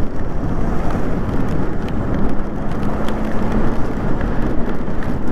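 Riding a Daymak Pithog Max e-bike through wet slush in pouring rain: a steady rush of wind on the microphone with tyre and road noise, and a faint steady hum for about two seconds in the middle.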